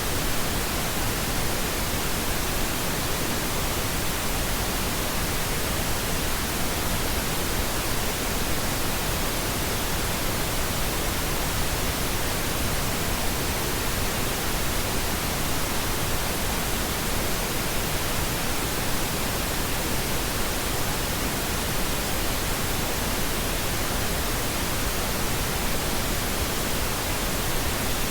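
Pink noise: a steady, even hiss spread across the whole range from low to high, unchanging throughout.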